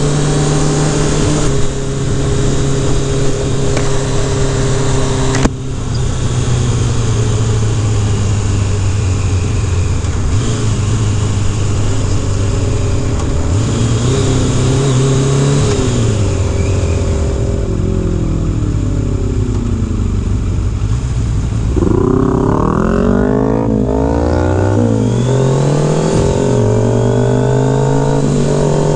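Kawasaki Concours ZG1000's inline-four engine running under way, with wind rush over the microphone. The engine note holds fairly steady at first, then rises and drops in pitch several times near the end as the bike accelerates.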